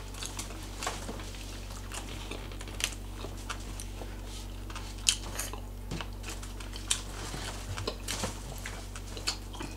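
Close-miked chewing: wet mouth smacks and soft clicks of people eating, scattered irregularly over a steady low hum.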